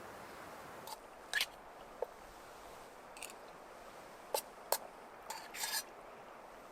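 Sparse small clicks, snips and short rustles of food and its packaging being handled at a meal, over a faint steady outdoor hiss.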